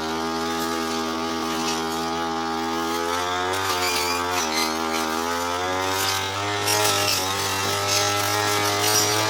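Brush cutter engine running at high speed while cutting tall, thick grass; the engine pitch sags briefly about four seconds in and again around six seconds as the blade takes the load, with scattered ticks of cut material near the end.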